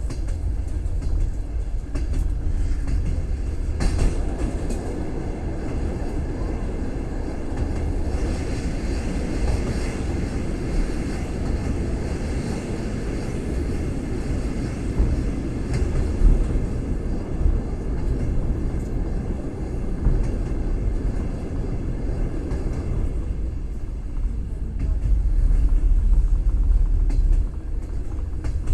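Train wheels rumbling steadily over the rails, heard from inside a moving railway carriage, with the occasional sharp knock of the wheels. The rumble swells louder for a few seconds near the end.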